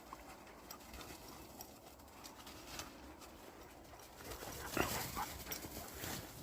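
A dog giving a few short whimpers about five seconds in, among scattered faint clicks.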